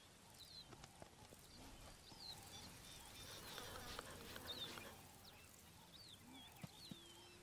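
Near silence: faint outdoor ambience with many short, high chirps, typical of small birds calling in the grass.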